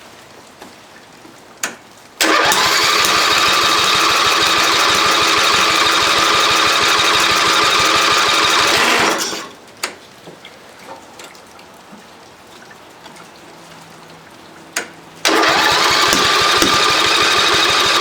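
A Toro mower's engine being cranked on its electric starter in a cold start, twice: about seven seconds, then a pause, then about three more seconds, each run starting just after a click. It does not fire: the engine is close to starting but not catching.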